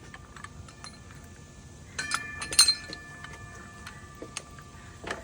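Loose metal hardware clinking: a few light ticks, then a cluster of sharp metal-on-metal strikes about two seconds in, the loudest leaving a ringing tone that hangs for a couple of seconds.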